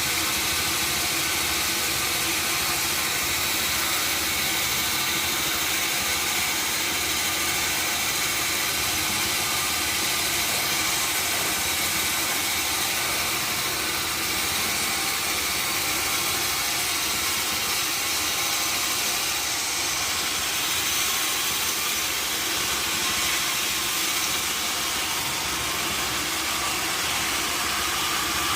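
Sawmill machinery running steadily: an even mechanical drone with a hiss over it, holding the same level throughout.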